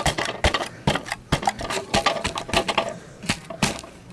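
Plastic dust bin of a Fantom Crosswind bagless vacuum being tapped and knocked to shake out dust and hair that cling to its sides: a quick irregular run of sharp clicks and knocks that stops a little before the end.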